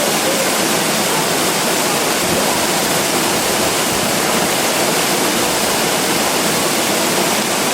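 Loud, steady rush of a mountain waterfall, an even wash of falling water.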